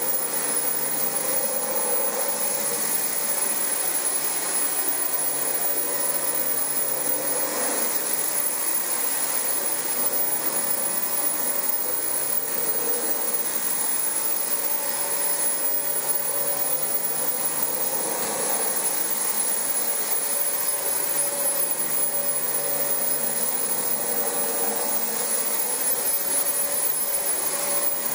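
Dyson DC25 upright vacuum cleaner running steadily on carpet. Its motor gives a constant whine with a thin high tone over a rush of air, swelling slightly every few seconds.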